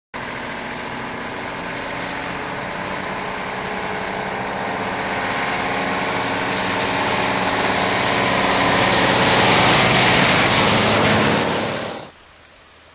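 A motor vehicle engine running and growing steadily louder, then cutting off sharply near the end, leaving a quieter steady hiss.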